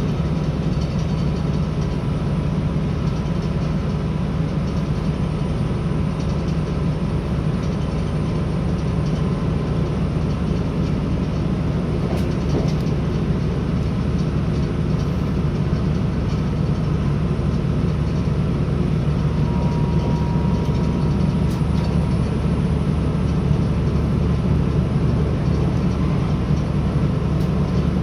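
Northern Ireland Railways CAF 3000 class diesel multiple unit at speed, heard inside the passenger car: a steady low drone of engine and wheels on the rails, a little louder in the second half.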